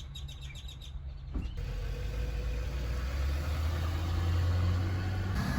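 A car engine running with a steady low rumble that sets in abruptly about a second and a half in and grows louder a few seconds later.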